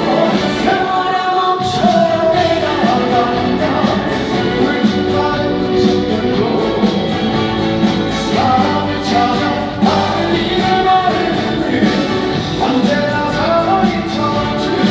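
Live trot song played by a band through a stage sound system, with singing over the music.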